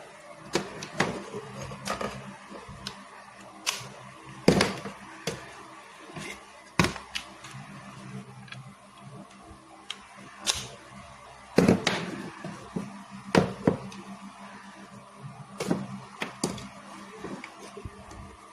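Irregular sharp clicks and knocks of small objects being handled, a dozen or more spread unevenly, over a faint steady hum.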